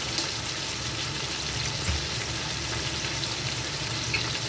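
Chicken sizzling in hot oil in a pan with light soy sauce just poured in: a steady frying hiss with scattered small crackles.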